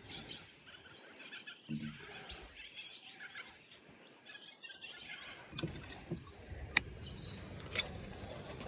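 Birds chirping faintly over quiet background noise, with a few sharp clicks in the second half.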